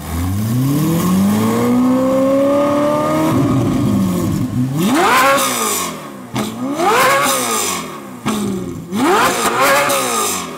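Ferrari 458 Italia's naturally aspirated V8 through an iPE valved exhaust being revved while standing: one long rise in revs over the first three seconds, then three sharp blips that climb and fall back, the last a quick double.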